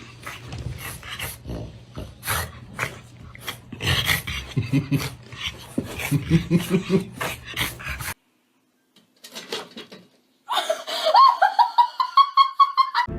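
A dog whimpering and growling among scattered clicks and knocks. After a short break, there is a long high call that rises and then holds.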